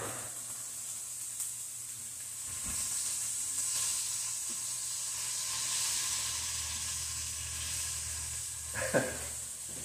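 Steak strips and poblano peppers sizzling in a hot frying pan as they are stirred with tongs; the sizzle grows louder about two and a half seconds in. A brief sharp knock near the end.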